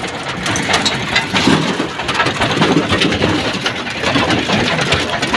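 Excavator working: its diesel engine runs under a dense, irregular rattling and clanking of the machine and its bucket.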